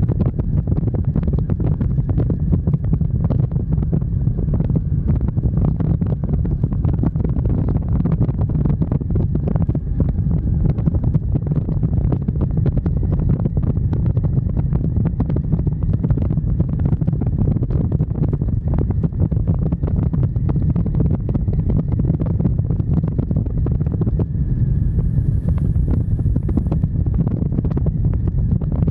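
Riding a motorcycle at speed: wind buffeting the microphone over the bike's engine and road noise, a loud, steady low rumble.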